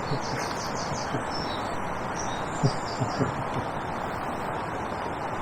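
Small birds chirping: a quick run of high notes shortly after the start, then a few more scattered chirps, over a steady outdoor hiss. Several short, low dull sounds come now and then.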